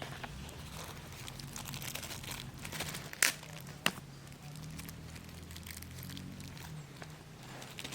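Crinkling and rustling of something being handled, with two sharp clicks a little over three seconds in and just before four seconds.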